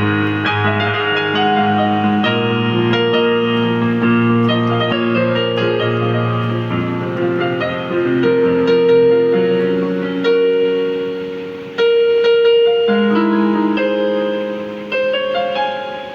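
Synthesizer in a piano-like voice playing a melody over held chords and low bass notes. The bass drops out for a few seconds past the middle and comes back near the end.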